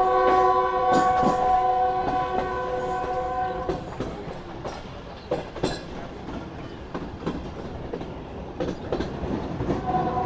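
Train horn sounding one long blast of several steady notes together, lasting nearly four seconds, over the rumble and clatter of a moving train. After the blast, the wheels go on clicking over the rail joints, and the horn starts again near the end.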